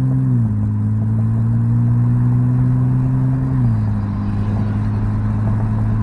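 Muffler-deleted BMW 328i inline-six exhaust heard from the cabin under light acceleration: a steady low drone that drops in pitch twice, about half a second in and again near four seconds, under wind noise through the open windows.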